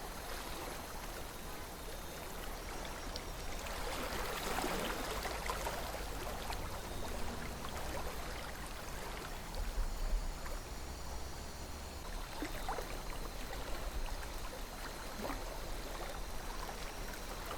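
A calm river flowing steadily, a gentle rush of water with many small splashes and gurgles. A low rumble sits underneath and swells briefly about ten seconds in.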